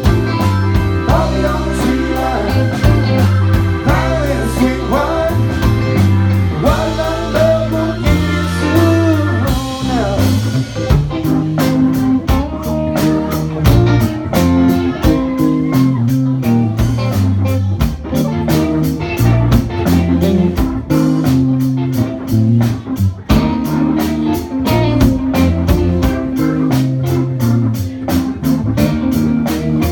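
Live rock band music with electric guitar, bass and drums. From about ten seconds in, the drums settle into a steady, even beat.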